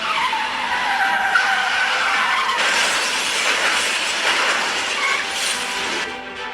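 Car tyres skidding with a high squeal, followed by several seconds of loud, even rushing noise.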